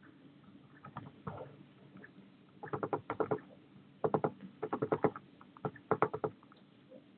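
A bird at a garden feeder tapping and clicking against it: short bursts of rapid sharp taps, about six bursts in all, the strongest in the middle and later part.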